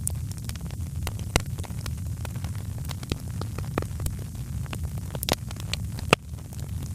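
Wood fire crackling: frequent sharp snaps and pops at irregular intervals over a steady low rumble, with one louder pop about six seconds in.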